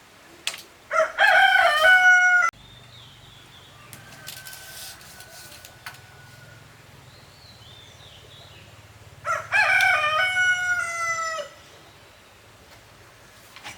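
A rooster crowing twice, the crows about eight seconds apart and each lasting about two seconds.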